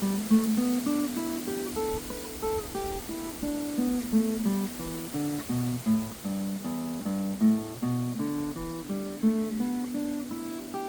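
Steel-string acoustic guitar playing a scale pattern one plucked note at a time, about three notes a second, climbing and falling through the pattern.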